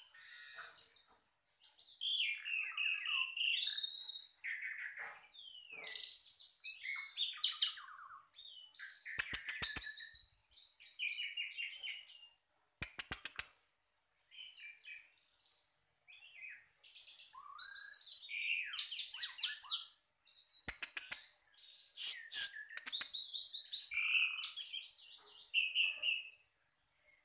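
A bird singing a long, varied song of chirps, whistles and quick gliding notes in bouts with short pauses, broken by a few rapid runs of clicks.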